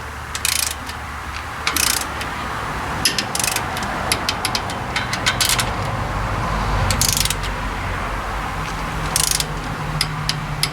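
Hand ratchet tightening the kingpin lock-pin nuts: short bursts of ratchet clicking every second or two, then a quick run of clicks near the end, over a steady low hum.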